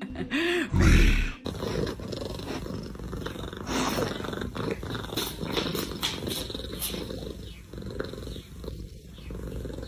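Cat purring loudly close up: a steady low rumble with scattered clicks. Near the start there is a short call, then a loud bump about a second in.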